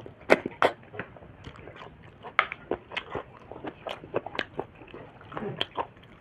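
A person chewing and biting pork and snail meat close to the microphone: irregular wet clicks and smacks, several a second, with a brief low voiced sound near the end.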